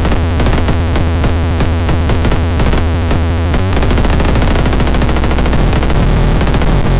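Experimental electronic synthesizer patch playing a dense, rapid stuttering rhythm over a heavy bass. It drops out for a split second a little past halfway, then carries on.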